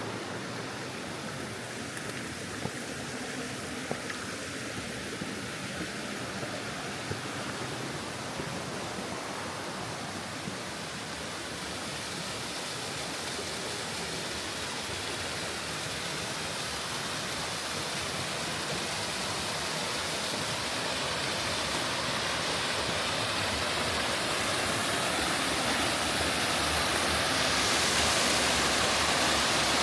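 Steady rush of a stream's flowing water, growing gradually louder. A few faint taps sound over the first ten seconds or so.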